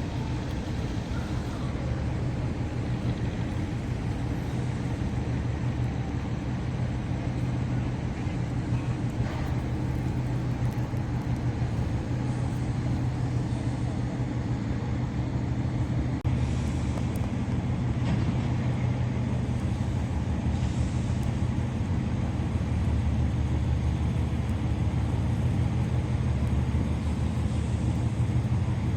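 A large engine running steadily, a continuous low drone that grows slightly louder toward the end.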